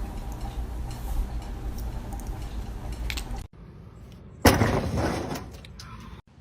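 A sudden loud crash about four and a half seconds in, fading over a second or so, after a steady noisy background that cuts off abruptly.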